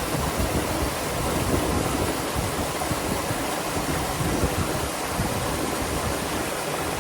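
Steady rush of a waterfall, with irregular low rumbles of wind buffeting the microphone.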